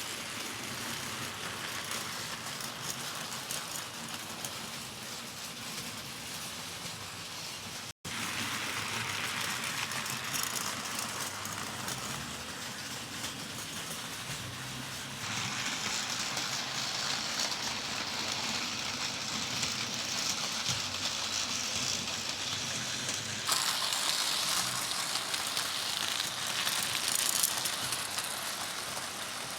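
Model coal train running on the track, its wheels and wagons rattling, over a steady hiss of rain. The sound breaks off for an instant about 8 s in and changes abruptly twice more.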